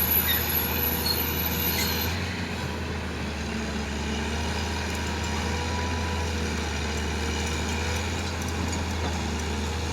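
Heavy diesel engine running steadily with a constant low hum; a high whine fades out about two seconds in.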